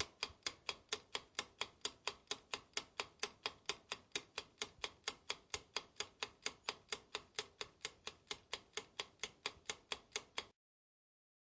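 Clock-ticking countdown timer sound effect: sharp, evenly spaced ticks at about four a second, cutting off suddenly near the end.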